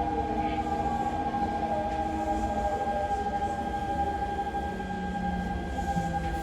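Hanshin 9000 series train's Mitsubishi GTO-thyristor VVVF inverter whining, as heard inside the passenger car: a steady high tone with shifting lower tones over the rumble of the wheels on the rails.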